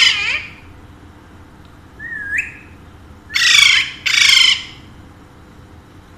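Alexandrine parakeet calling: a short rising whistle, then two loud, harsh squawks of about half a second each in quick succession, after the tail of an earlier squawk at the start.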